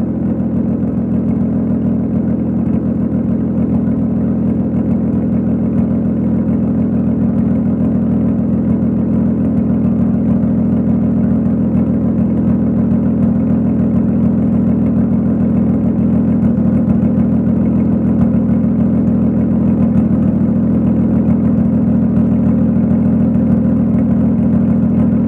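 Toyota 1JZ-GTE VVTi turbocharged straight-six idling steadily through a J-pipe-deleted, full 3-inch straight-pipe exhaust.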